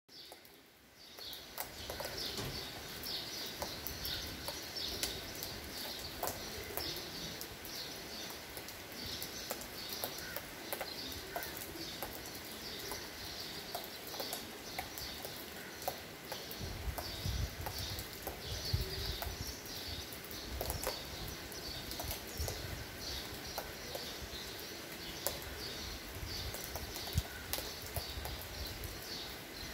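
Birds chirping steadily, with scattered light ticks, over a wet-season outdoor ambience. A low rumble joins in about halfway through.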